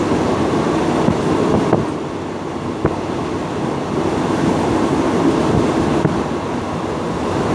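Train running on the rails, a steady rumble with a few short sharp clicks.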